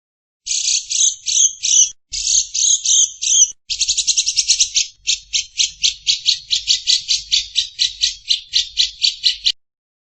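Recorded bird calls: a few harsh, buzzy chattering bursts, then a fast run of evenly repeated rasping notes, about five a second, that stops shortly before the end.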